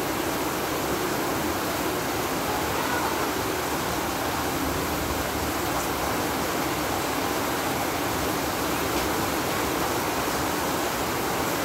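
Heavy typhoon rain pouring down steadily: a dense, even hiss that does not let up.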